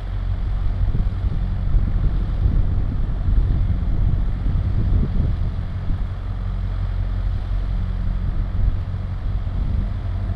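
Vehicle engine idling: a steady low hum with even bands of pitch and a light noise on top, the vehicle standing still.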